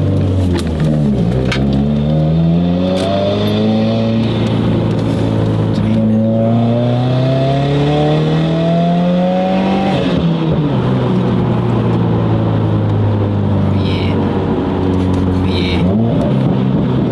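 Car engine heard from inside the cabin while driving. Its note climbs slowly under acceleration and falls back sharply twice, once about two-thirds of the way in and once near the end.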